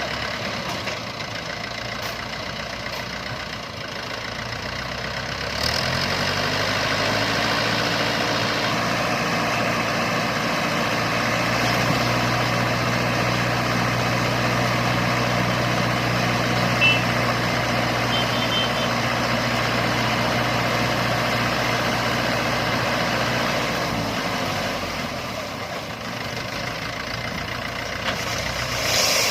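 Diesel engine idling, then revving up about six seconds in, holding steady high revs for a long stretch, and dropping back toward idle near the end.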